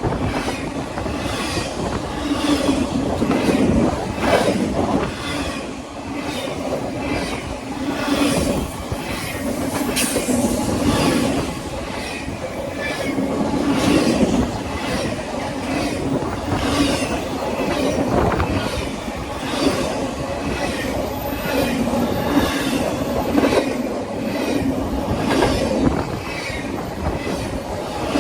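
Double-stack container freight train rolling past at speed: a steady rumble from the cars, with wheels clacking over rail joints in a regular repeating rhythm.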